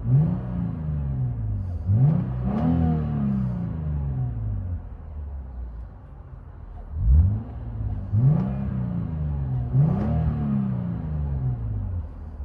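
Lexus IS 250's 2.5-litre V6 being free-revved in quick blips, two bursts of three or four revs each, each rising sharply and falling back to idle. It is heard from inside the cabin with the valved mufflers closed.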